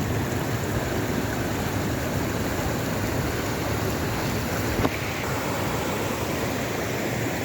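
Water rushing steadily over the rocks of a small waterfall and its stream, with one brief knock about five seconds in.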